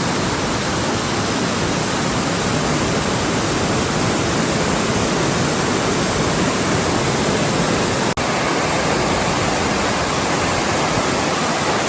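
Devil's Punchbowl waterfall pouring down, a loud steady rush of falling water. It cuts out for an instant about eight seconds in.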